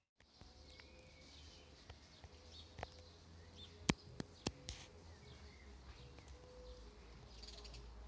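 Faint garden birdsong: scattered short high chirps over a low rumble, with a handful of sharp clicks about three to five seconds in.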